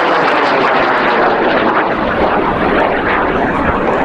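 Steady roar of a large O-class (about 12,900 newton-second) high-power rocket motor as the rocket climbs away after liftoff.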